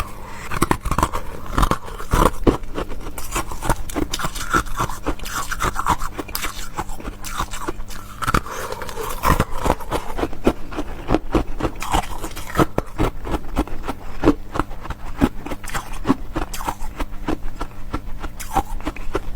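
Close-miked chewing and crunching of crisp food, a dense run of crackly bites and mouth sounds.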